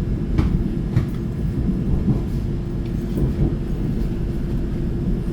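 Passenger train heard from inside the carriage: a steady low rumble of running gear with a constant hum, and a couple of sharp clicks in the first second.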